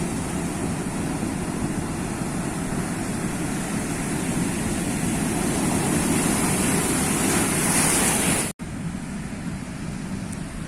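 Sea waves washing in, a steady rush that swells to a peak, breaks off for an instant near the end, then goes on a little quieter.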